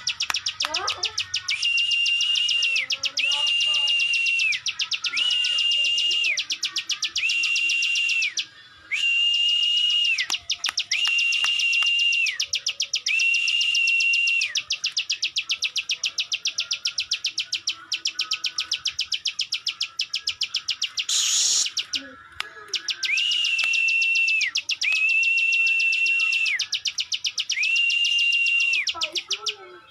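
Ciwah, a small prinia-family songbird, singing at full volume: a continuous, very rapid clicking trill with held, steady high whistled notes about a second long repeated over it. There are brief pauses about a third of the way in and again about two-thirds of the way in.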